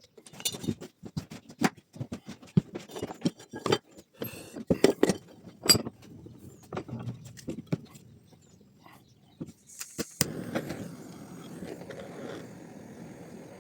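Small metal tool parts clinking and knocking as they are handled, with a quick run of sharp taps over the first several seconds. About ten seconds in there is a short hiss, followed by a steady rushing noise.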